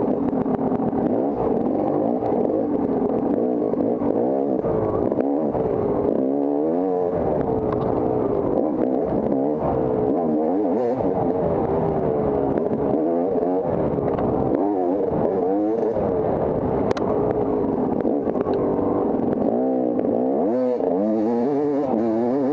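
Off-road motorcycle engine being ridden hard, revving up and falling back again and again as the throttle is opened and shut, the pitch rising and dropping every second or two.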